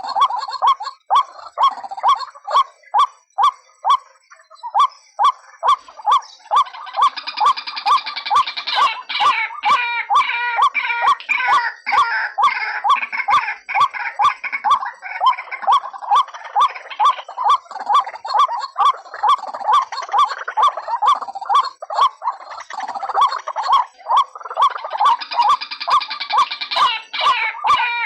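White-breasted waterhen (ruak-ruak) lure call: a rhythmic run of repeated notes, about two or three a second, with a busier, higher-pitched chattering layered over it about a quarter of the way in and again near the end.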